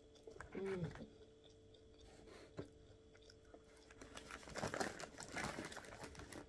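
Quiet close-up chewing of soggy chips, with faint mouth clicks and a brief hum of the voice just under a second in. Near the end, a denser patch of rustling as a hand reaches into the paper lining of the chip tray.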